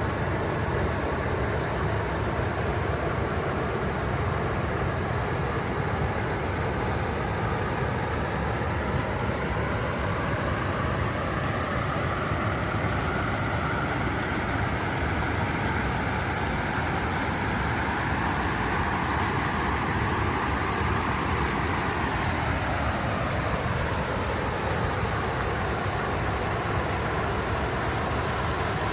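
Stream water rushing over rocks and small check dams: a steady, even rush with no breaks.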